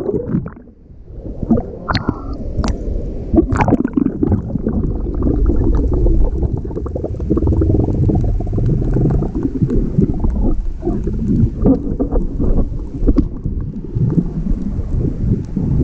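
Muffled sloshing and gurgling of rough sea water washing around a swimmer's camera, with a few sharp splashes in the first few seconds.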